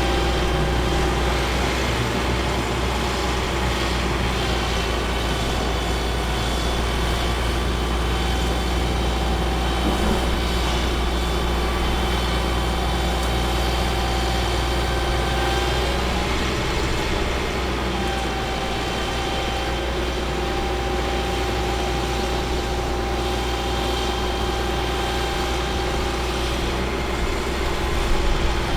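Caterpillar C7 diesel engine of a Ford F750 bucket truck running steadily: a deep drone with a steady whine above it.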